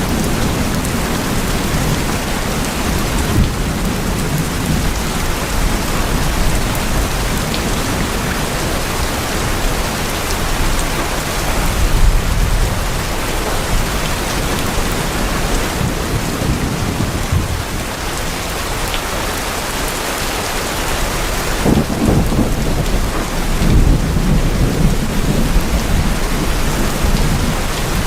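Heavy rain drumming steadily on tin roofs, a dense even hiss with a low rumble underneath that swells a few times, most strongly about halfway through and again near the end.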